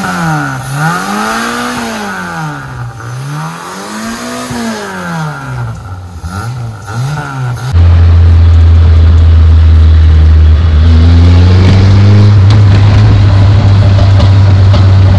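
The carburetted engine of a 2000 Maruti Esteem, its cylinder head freshly rebuilt, revving up and down several times in a row. About eight seconds in, the sound switches abruptly to a loud, steady low drone.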